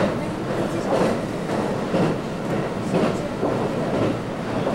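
Running noise inside a JR West 223 series 2000 electric multiple unit travelling at speed: a steady rumble with a wheel click over the rail joints about once a second.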